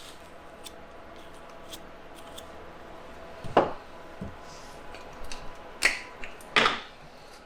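A few sharp knocks and clicks of parts and tools being handled on a workbench, the loudest about three and a half seconds in and two more near the end, with faint ticks between.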